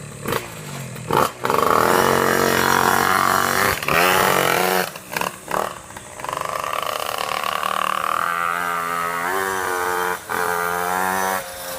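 Small two-stroke pocket bike engine revving hard, a new CS engine being run in, its pitch climbing through the revs and dropping off briefly a few times as the throttle is closed.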